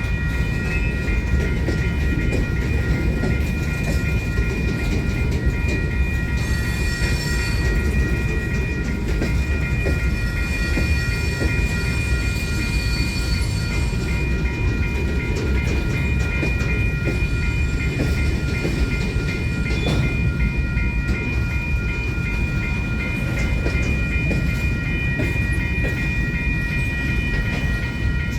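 Freight train rolling past: a steady low rumble of railcars with scattered clicks and clacks from the wheels on the rails, over several steady high ringing tones that last throughout.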